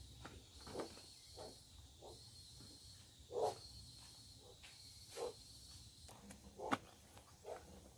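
Footsteps crunching on dry forest floor, one every half second to a second with a few heavier steps, over a steady high insect buzz.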